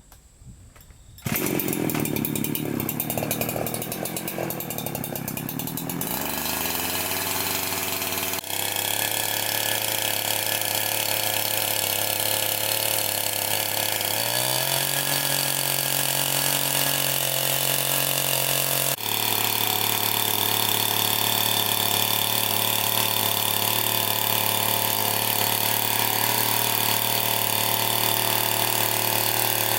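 Chainsaw starting about a second in, then running with a steady engine note that steps up in pitch about halfway through.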